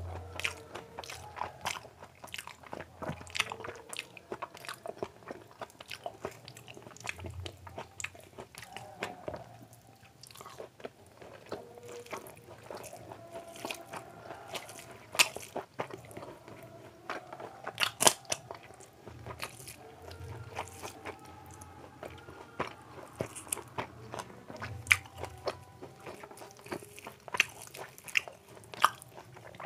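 Close-miked eating: a person chewing and crunching mouthfuls of panta bhat (fermented water rice) with fried sides, eaten by hand, in an irregular run of small wet clicks and crunches. Two sharper crunches stand out about fifteen and eighteen seconds in.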